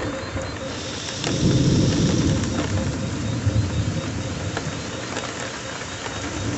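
Rain falling steadily with a low rumble of thunder that swells about a second in and slowly fades.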